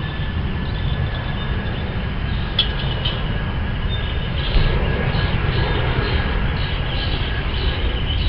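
Jet airliner's engines passing overhead: a steady low rumble with a faint high whine.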